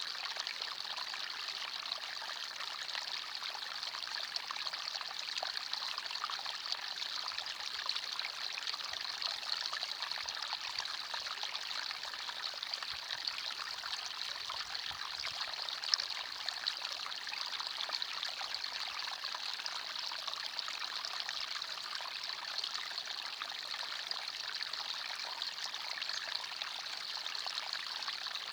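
Forest stream flowing steadily over rocks, an even trickling and burbling of water.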